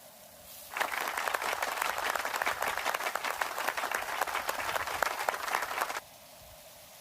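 Beef sizzling loudly on a hot griddle: a dense, crackling spatter that starts abruptly about a second in and cuts off sharply about five seconds later.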